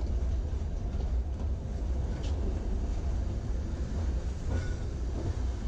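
Steady low rumble of a passenger train rolling slowly along a station platform, heard from inside a carriage through an open window.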